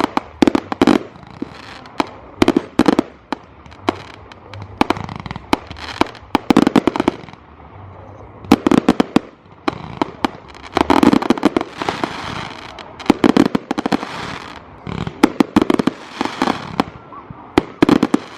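Firework display: volleys of sharp bangs and crackling from shells going off overhead, coming in clusters every second or two, some with a deeper boom.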